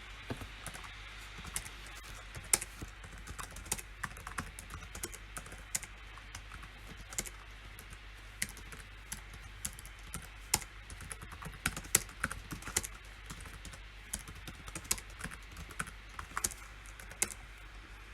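Typing on a computer keyboard: a quick, irregular run of key clicks with a few harder strokes standing out, starting right at the beginning and stopping shortly before the end, over a steady low hum.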